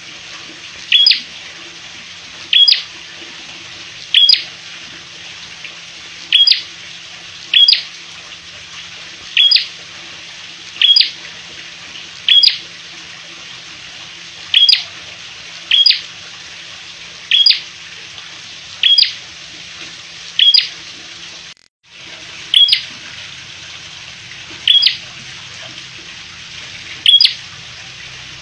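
Caged prenjak merah giving short, sharp, high single calls, one about every second and a half, over a steady background hiss. The sound cuts out for a moment about three-quarters of the way through.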